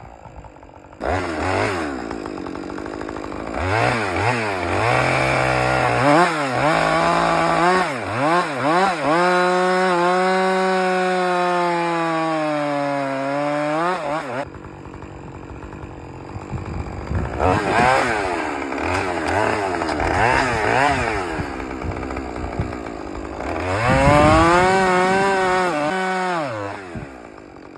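Husqvarna chainsaw cutting into a tree trunk. The engine revs up and drops again over and over, and for several seconds in the middle it sinks steadily in pitch as it labours in the cut. It eases off to a lower level for a few seconds after the middle, then revs and cuts again.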